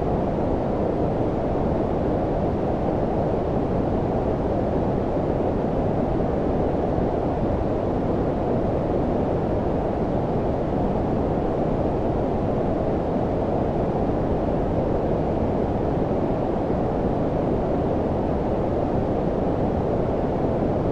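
Steady, low-pitched noise for sleep, white noise filtered down into a deep, even rush with almost no hiss above. It does not change.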